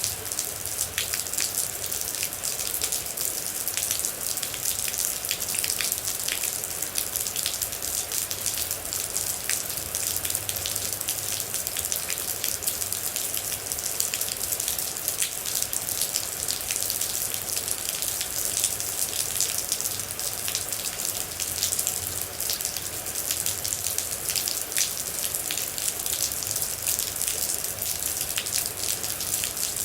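Steady rain falling, with many separate water droplets striking a surface close by in quick, irregular succession.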